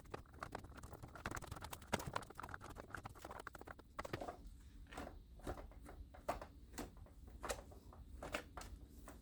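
Metal-bristle hairbrush stroking through a doll's dry synthetic hair: faint, scratchy brushing strokes, coming about one or two a second in the second half.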